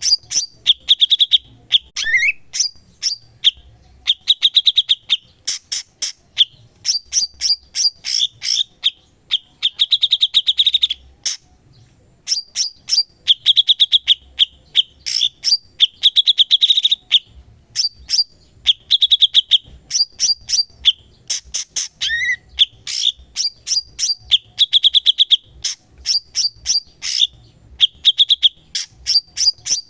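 A cucak cungkok songbird singing continuously and loudly. Rapid strings of sharp chirps alternate with buzzy trills and quick rising and falling notes, broken by short pauses, including one near the middle.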